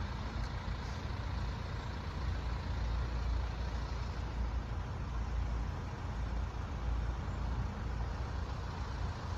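Road traffic idling and rumbling steadily, a low, even drone with no distinct events.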